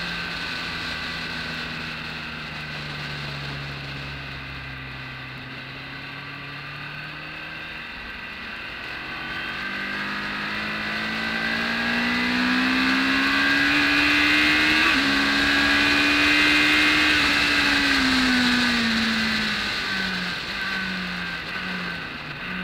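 BMW K1200S inline-four engine under load on track: the note sags a little, then climbs steadily and gets louder as the bike accelerates, holds high for a few seconds, then drops away. Near the end it falls in short stepped pieces as the bike slows.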